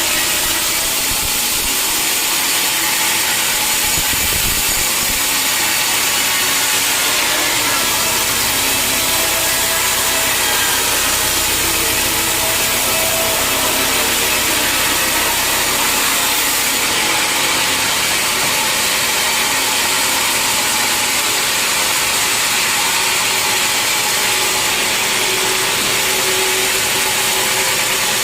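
Sawmill blade cutting through a large log, a loud, steady sawing noise that runs without a break.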